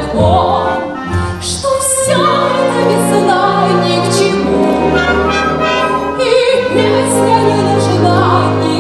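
A woman singing in operatic style, holding long notes over an orchestral accompaniment.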